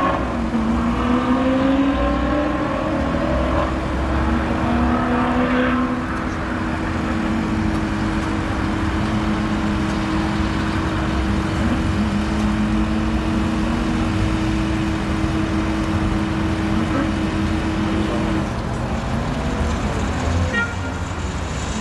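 A vehicle engine running: it revs up in pitch during the first few seconds, then holds a steady note, with heavy mechanical noise underneath.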